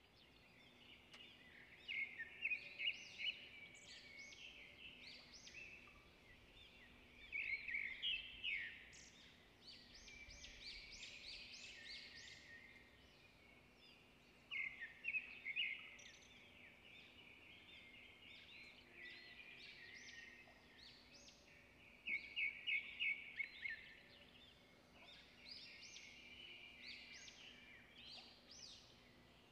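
Songbirds singing and chirping, with louder bursts of quick repeated notes every several seconds and quieter twittering in between.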